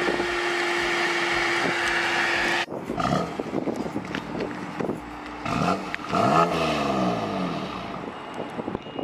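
BMW M2 Competition's twin-turbo straight-six, the M4's engine, revved from idle at its quad exhausts in short blips. The biggest rev comes about six seconds in, its pitch rising and then falling back. Before that, a steady car-running noise with a held tone cuts off suddenly after about two and a half seconds.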